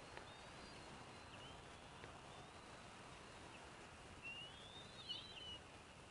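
Faint bird calls over steady background hiss: thin, whistled chirps, with a louder warbling call about four to five and a half seconds in.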